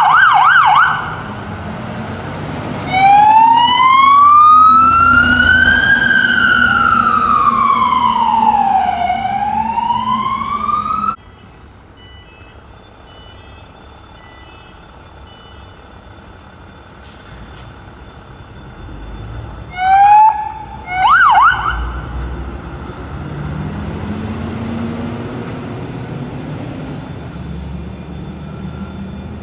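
Fire engine sirens: a fast yelp, then a slow wail rising and falling that cuts off suddenly. Later come two short, sharp siren whoops, followed by a heavy engine note climbing as the truck pulls away.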